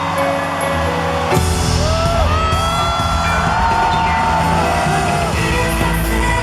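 Live pop concert music played over a large hall's sound system, a gliding melody over a band, with the bass and beat filling in about a second and a half in.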